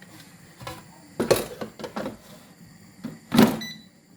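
Knocks and clatter of an air fryer being handled and closed, the loudest knock about three and a half seconds in. It is followed right after by a short electronic beep from its control panel as it is set.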